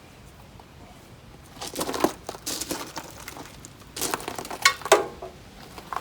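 Irregular rustling and clattering of things being handled, in two bursts of a second or so each: one about a second and a half in, one about four seconds in, with a few sharp clicks.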